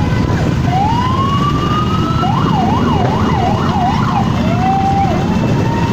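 Siren sounding over a steady rumble of vehicle engines. It rises in one slow sweep, then switches to four quick up-and-down yelps, then ends with a short lower tone about five seconds in.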